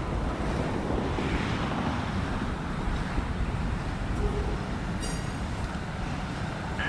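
Freight train rolling past: a steady low rumble of wheels and cars on the rails.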